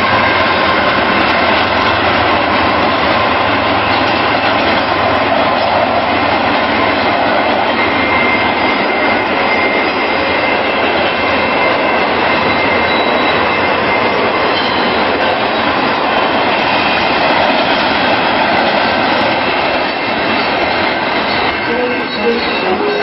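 A train passing close by: a loud, steady noise of wheels running on the rails, with thin high squealing tones over it.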